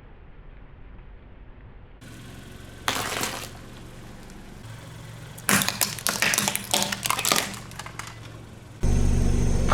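A car tyre rolling over and crushing brittle objects: a single crack about three seconds in, then a long run of sharp crackling and snapping, with a steady low engine hum underneath.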